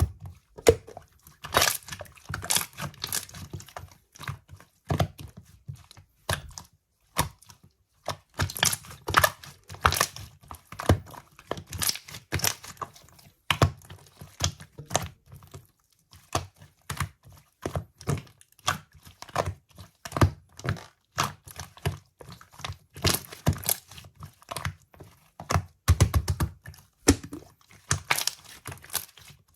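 Mechanical keyboard being typed on: irregular runs of clacking keystrokes with short pauses between them.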